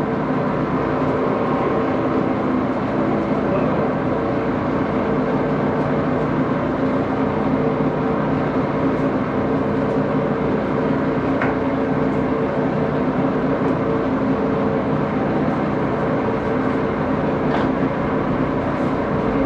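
Axelson engine lathe running steadily at speed: a continuous mechanical hum with a few held tones, unchanging throughout, with a few faint ticks.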